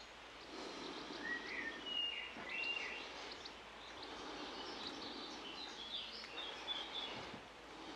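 Birds chirping and singing in short, high whistled notes over a steady outdoor background hiss.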